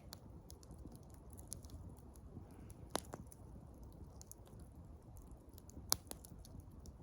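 Wood campfire crackling: scattered small irregular clicks over a low background, with a sharper single pop about 3 seconds in and another near 6 seconds.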